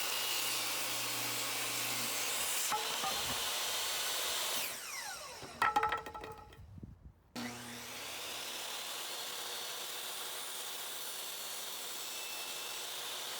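Hercules 10-inch compact table saw running and cutting wood, then switched off and winding down with a falling whine about four and a half seconds in, a few sharp knocks, and the saw starting up again for another cut.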